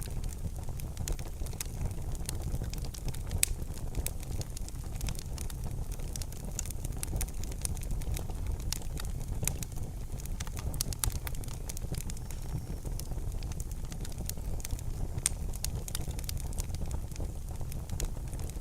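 Fire burning in a fireplace, with frequent irregular sharp crackles and pops over a steady low rumble.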